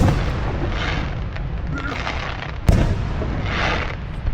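Aerial fireworks shells bursting, with a sharp boom at the start and another about two and a half seconds later, and noisy patches of sound between them.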